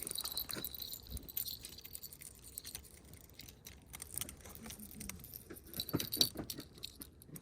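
Light, irregular clicks and rattles of fishing gear being handled as an ice-fishing rod is reeled in.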